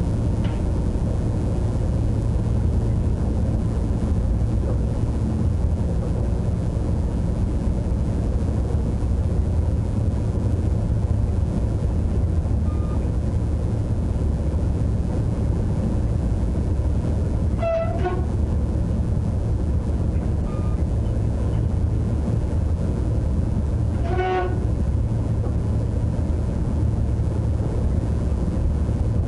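Steady low rumble of a train running, heard from inside the driver's cab. Two short tooting tones sound, one past the middle and another about six seconds later.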